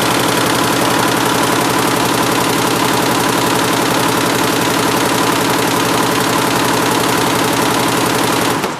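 A 176-needle Schiffli embroidery machine running at speed: a loud, steady, rapid mechanical clatter that cuts off near the end.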